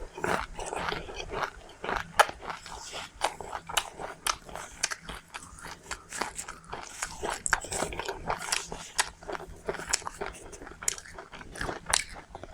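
A person chewing crunchy seeds close to the microphone, with many quick, irregular crunches and crackles.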